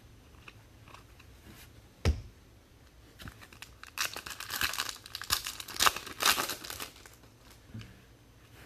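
A sharp knock about two seconds in, then a few seconds of crinkling and tearing as a trading-card pack's foil wrapper is ripped open.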